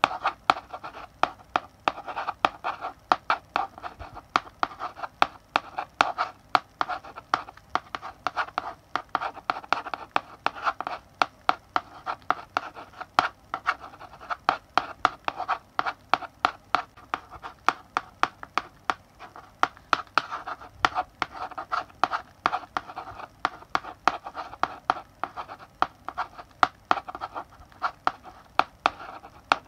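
Chalk writing on a blackboard: scratchy strokes broken by many sharp taps of the chalk against the board, several a second, going on without a break.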